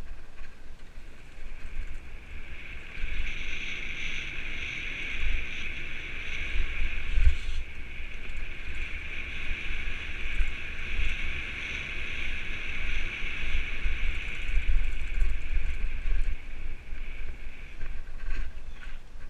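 Wind buffeting a mountain bike's GoPro microphone, with a steady rolling hiss from the bike moving along the forest trail that sets in about two seconds in and eases off near the end.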